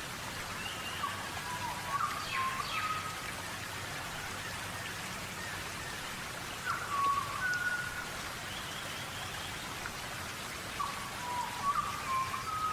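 Birds calling in three short bursts of brief whistled chirps, some sliding in pitch, over a steady hiss.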